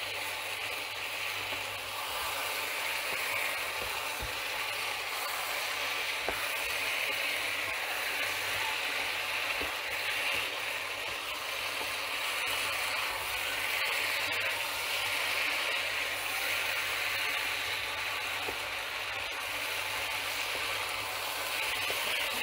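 Chicken pieces, rice and vegetables sizzling steadily in a hot frying pan while being stirred with a wooden spatula, with a few light scrapes and taps of the spatula against the pan.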